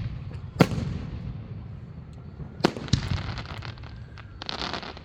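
Aerial fireworks shells bursting: one sharp boom about half a second in, two more close together near the middle, and a dense spell of crackling near the end, over a steady low rumble.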